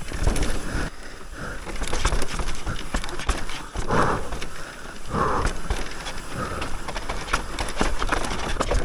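Electric mountain bike riding down a loose dirt trail: the tyres crunch over gravel and the bike clatters and rattles over bumps.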